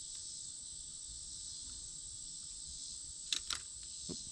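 Steady high-pitched chorus of insects singing. Two sharp clicks and a soft knock come near the end.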